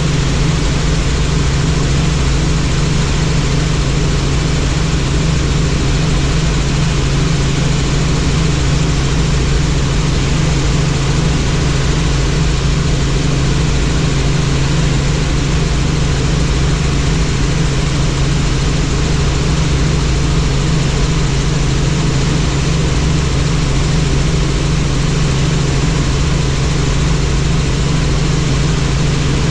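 Helicopter in flight: steady, unbroken rotor and engine noise with a strong low hum.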